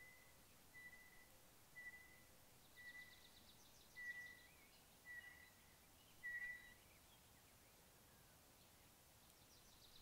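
Faint birdsong: a bird repeats a short steady whistled note about once a second, stopping about two-thirds of the way through. A higher, rapid trill comes twice, once about three seconds in and again near the end.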